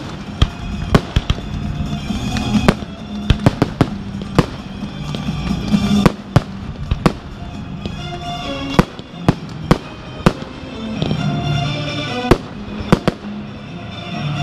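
Fireworks display going off: sharp bangs and pops about twice a second, thinning out near the end, with music playing underneath.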